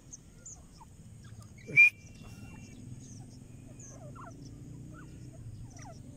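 Scattered short bird chirps over a low steady hum. About two seconds in there is one sharp, loud sound that leaves a brief high tone.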